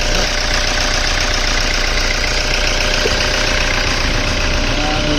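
Rebuilt Toyota 1KD four-cylinder turbodiesel engine idling steadily after its overhaul.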